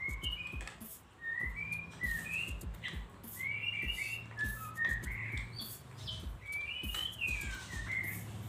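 A songbird chirping and whistling in short rising and falling notes, several a second, in repeated phrases. Scattered small clicks and taps come from eating by hand off a plate.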